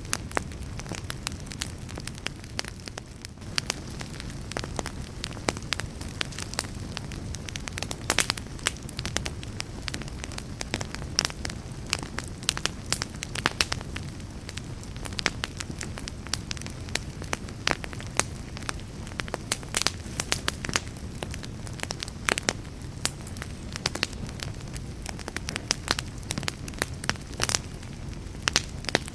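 Campfire burning steadily, with frequent sharp, irregular crackles and pops over a low, steady rumble of the flames.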